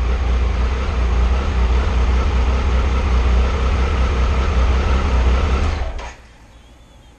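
2001 Triumph Sprint ST 955i's inline three-cylinder engine idling steadily, then switched off about six seconds in. It is running with the fuel tank and fuel pump plate freshly refitted.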